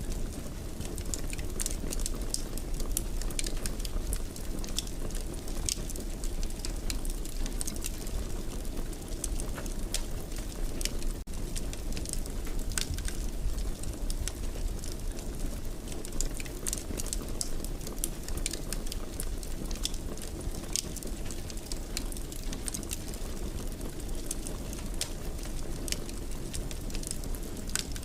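Fire crackling in a fireplace: a steady low rush of flames with frequent sharp pops and snaps scattered throughout.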